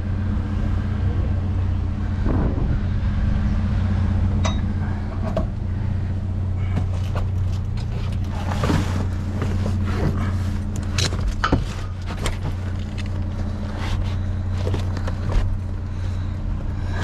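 A vehicle engine idling steadily, with scattered knocks and rattles over it that come thickest in the second half.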